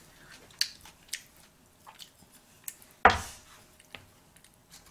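Close-miked mouth sounds of someone chewing sushi: soft wet clicks spaced out over a few seconds. One louder, sudden knock comes about three seconds in.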